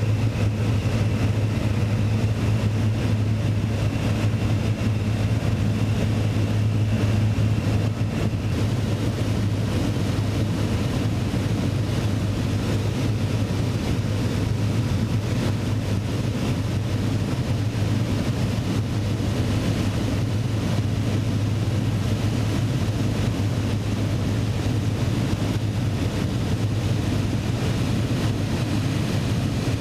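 Steady drone of a propeller aircraft's piston engine running at constant power.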